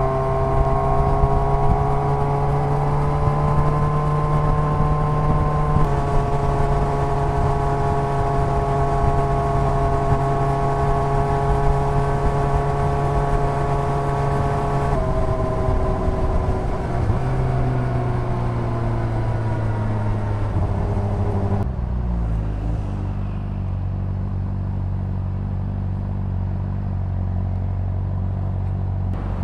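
Honda CBR600RR's inline-four engine and exhaust heard from the bike, running at steady revs with a small drop in pitch about six seconds in. About halfway the revs fall away gradually as the bike slows, and over the last third the engine settles to a low, steady idle.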